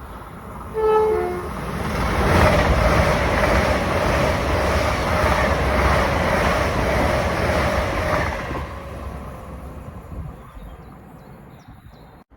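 Train horn sounding two short notes, high then lower, as a train approaches. The train then passes through the station at speed with a loud rushing of wheels on rail for about six seconds, fading as it goes away.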